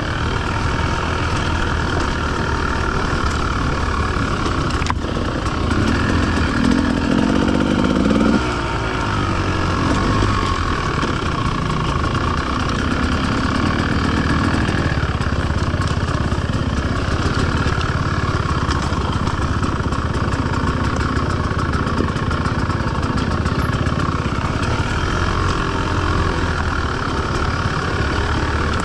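Enduro motorcycle engine running steadily while riding off-road. It gets louder for a couple of seconds about six seconds in, then drops back abruptly.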